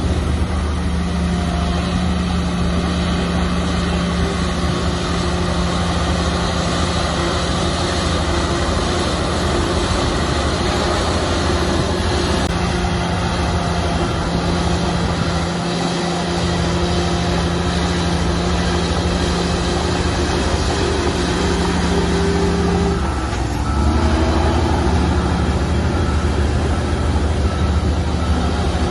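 Bulldozer's diesel engine running steadily under load. About three-quarters of the way in the engine note briefly drops and shifts, then comes back a little louder.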